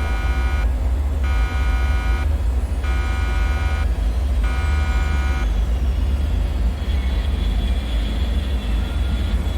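Deep, steady droning rumble of a dark bunker ambience. Over it a harsh buzzer-like alarm tone pulses on and off about four times and stops about halfway through. Faint, thin high tones then drift slowly in pitch.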